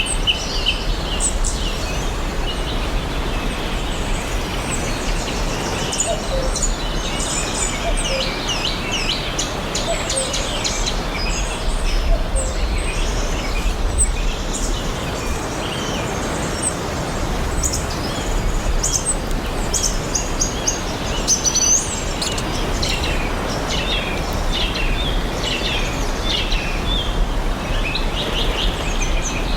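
Several songbirds chirping and singing in short calls and trills over steady background hiss and a low rumble.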